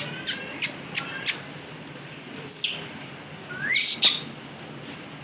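Pet parrot calling: a quick run of short clicks and chirps, then two brief high squawks, the first falling in pitch and the second rising, about two and a half and four seconds in.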